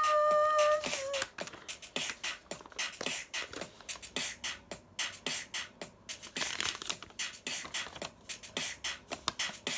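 A held steady tone that breaks off about a second in, followed by a fast, irregular run of sharp clicks.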